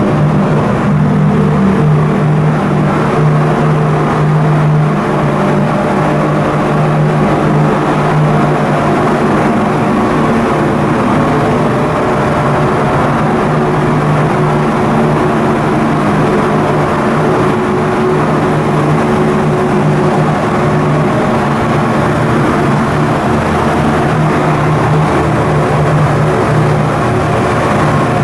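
Coastal cargo ship's diesel engine machinery running steadily: a loud, even drone with a strong hum that does not change.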